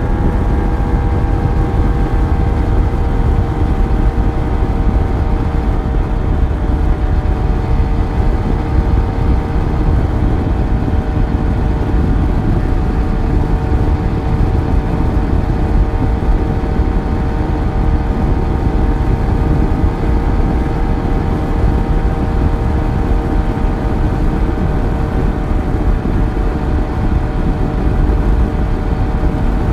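Yamaha FZ1's inline-four engine running at a steady cruising speed on the move, its engine note held level over a heavy low rumble.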